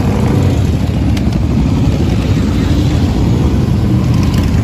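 Motorcycle engines running together in a steady, loud low rumble.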